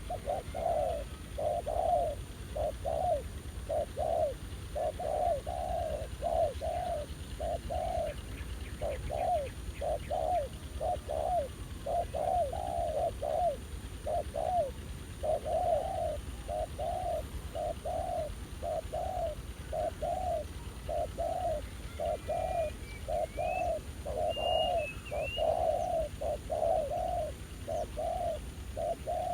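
Spotted doves cooing: a continuous run of short, low coo notes, one after another with barely a pause. A small bird chirps faintly a few times about three-quarters of the way in.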